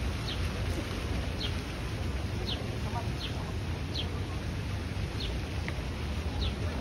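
A bird chirping repeatedly, short high chirps about once a second, over a low steady rumble.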